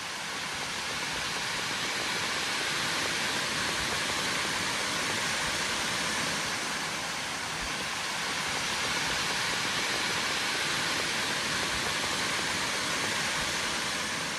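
Steady, even rush of a waterfall's falling water, a constant hiss with no rhythm or change.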